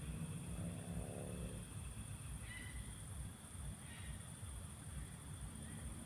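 Countryside ambience at dusk: a steady high-pitched hum over a low rumble. A low, drawn-out animal call comes about a second in, and short high bird chirps follow at about two and a half and four seconds.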